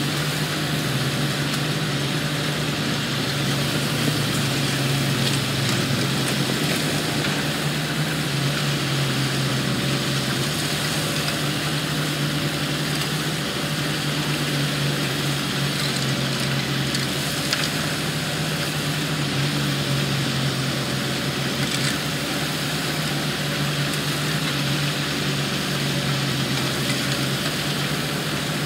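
Diesel engine of heavy construction machinery running steadily, a constant low drone with no revving.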